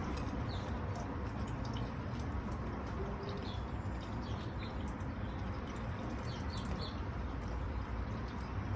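Short high bird chirps, scattered and irregular, over a steady background rush with a low rumble.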